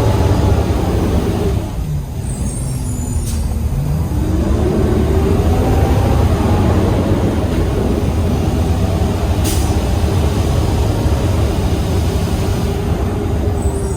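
Peterbilt 320 garbage truck's engine running, heard from inside the cab. Its pitch drops about two seconds in, then rises again and holds. A short hiss of air sounds early on, and there are two sharp clicks.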